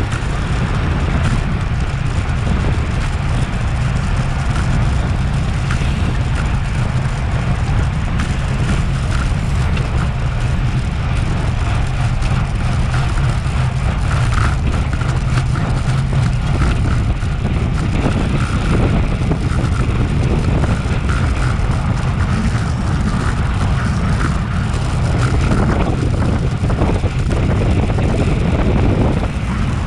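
Wind rushing over an action camera's microphone on a road bike at racing speed: a steady, loud low rumble.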